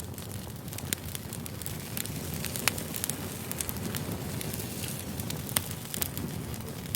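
Wood fire burning: a steady low rumble of flames with sharp crackles and pops scattered irregularly throughout, a few louder snaps standing out.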